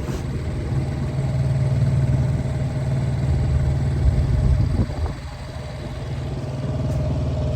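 Small 7 hp four-stroke outboard motor running steadily at low throttle, pushing a boat, kept well below top speed to put run time on the new engine. Its sound dips briefly about five seconds in, then comes back.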